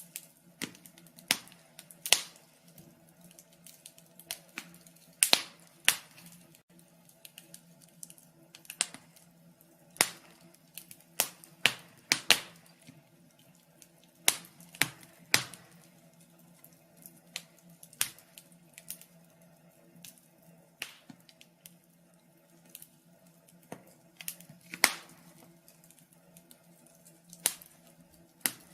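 Wood fire crackling, with irregular sharp pops and snaps, several a second at times and sparser at others, over a faint low steady background.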